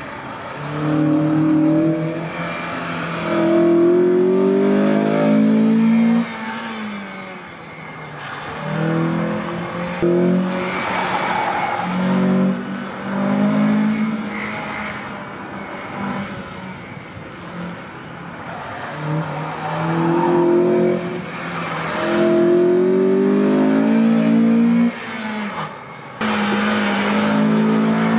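A first-generation Acura TSX's four-cylinder engine pulling hard through an autocross run, its pitch climbing through each acceleration and then dropping suddenly as the driver lifts or shifts, several times over. It is loudest near the start, in the last few seconds, and around the middle of the run.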